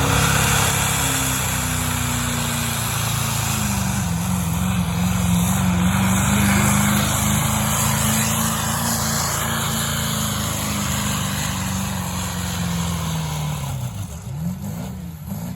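Pulling vehicle's engine at full throttle, dragging a weight-transfer sled down the pull track. The revs hold steady apart from a brief dip about four seconds in, then fall away near the end as the run finishes.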